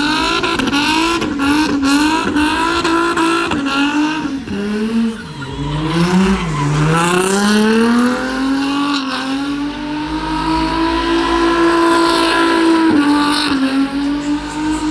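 Car engine held at high revs during donuts, with tyres screeching. The revs drop sharply about five to six seconds in, then climb back and hold high.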